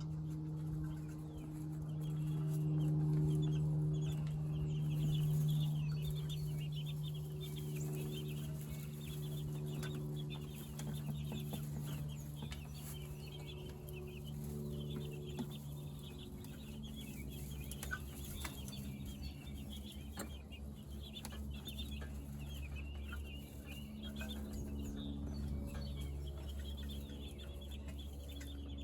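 A flock of meat chickens peeping and clucking continuously in many short, high calls, over a steady low hum.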